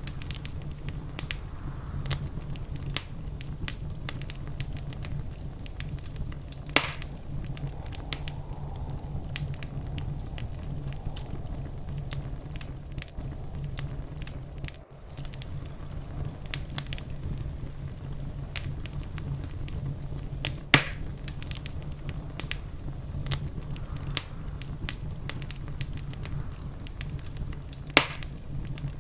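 Fireplace fire crackling: a dense run of small snaps over a steady low rumble, with three louder pops spread through.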